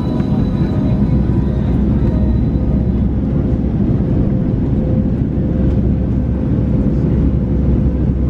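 Steady low rumble of a vehicle's engine and motion heard from inside, with a faint steady hum over it.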